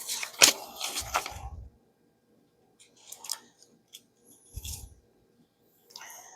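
Paper and craft supplies being handled on a work table: several sharp clicks and taps in the first second and a half, then a few quieter rustles and taps.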